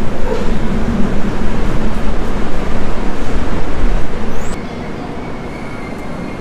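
Hatia–LTT Mumbai Express running, heard from on board: a loud, even rumble of the moving coach. About four and a half seconds in it drops suddenly to a quieter steady rumble with a faint high whine.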